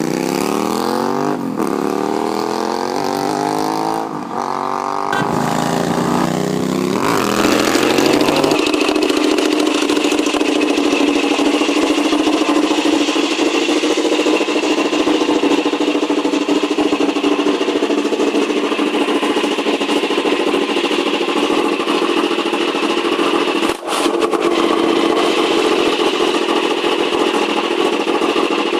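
Naza Blade 650N V-twin motorcycle with a custom exhaust pulling away hard, its engine note rising and dropping through several gear changes, then settling into a steady cruising drone.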